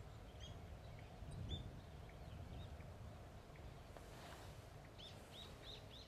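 Daurian redstart calling: short, high, arched chirps, a couple about half a second in and a quick run of four near the end, over a faint low background rumble.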